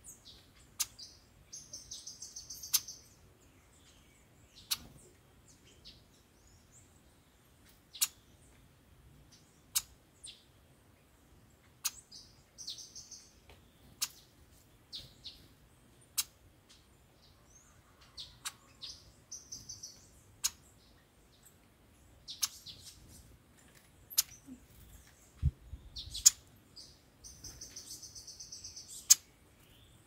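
Garden songbirds calling: sharp, high chip notes every second or two, with four short buzzy trills lasting a second or two each. A brief low thump comes late on.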